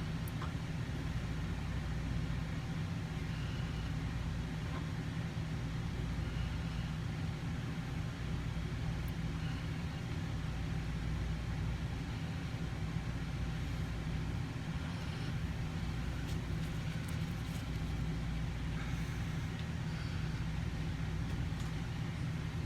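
Steady low background hum that holds an even level throughout, with a few faint ticks over it.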